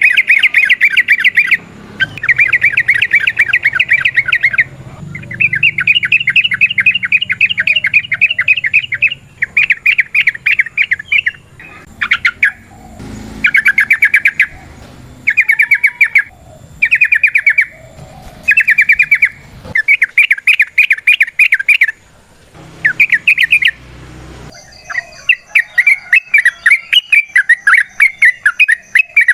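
Yellow-vented bulbul (trucukan, merbah cerukcuk) singing long, rapid rattling trills ('ropel') of quickly repeated notes, in bursts of one to three seconds with short pauses between.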